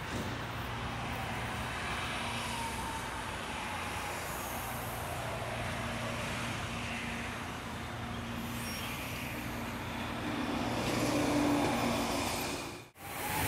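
New Alstom electric passenger train approaching on curved track, a steady running sound with a low hum that grows louder as it nears, then drops out abruptly near the end.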